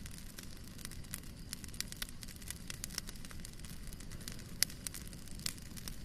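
Fire in a fireplace crackling steadily, with a dense run of small snaps over a low rumble and two sharper pops, about four and a half and five and a half seconds in.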